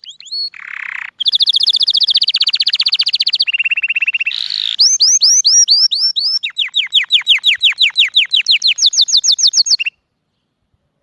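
A cage songbird singing a string of rapid, high-pitched trills, each run a fast repeat of one note before switching to another. The song cuts off suddenly near the end.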